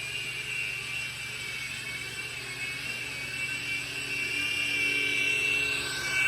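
Small electric motors of a CZ02 toy helicopter drone whining steadily as its rotors spin, the pitch wavering slightly and getting a little louder toward the end.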